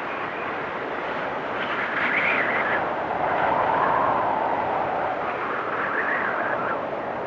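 Blizzard wind blowing steadily, swelling in gusts about two, four and six seconds in.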